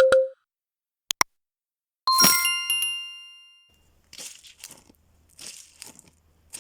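A few short clicks, then a bright strike with a bell-like ring of several tones dying away over about a second and a half, followed by a run of crinkly crunching scrapes.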